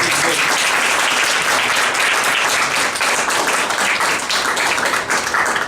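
Audience applauding steadily, a dense patter of many hands clapping, at the end of a poetry recitation.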